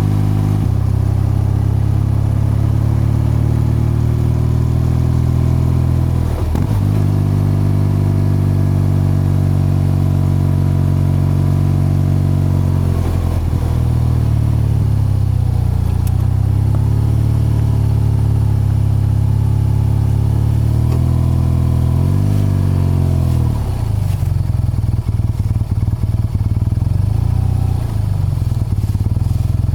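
BMW R12's 1170 cc boxer twin and exhaust, heard while riding, running at a steady cruise. Its note breaks and shifts pitch about six and a half seconds in, again around thirteen seconds and around twenty-two seconds, like gear changes. From about twenty-four seconds on the exhaust note turns uneven and choppy.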